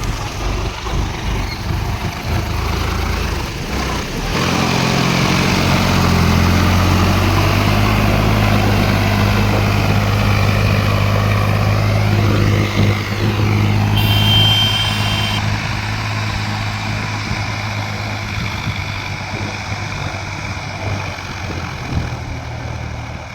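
Sonalika Sikandar tractor's diesel engine running. It gets louder a few seconds in, holds, then eases back toward idle. A brief high-pitched tone sounds about two-thirds of the way through.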